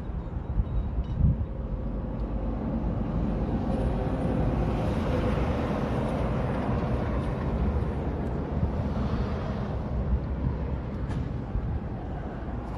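Heavy machinery engines running with a steady low rumble that swells in the middle and eases off near the end.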